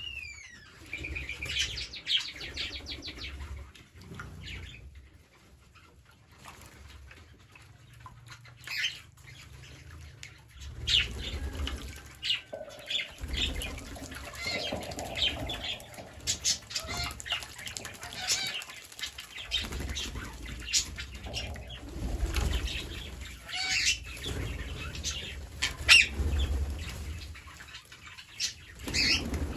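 Green parrots fluttering and scuffling, with short chirps and clicks scattered throughout. A quick run of high chirps comes in the first few seconds.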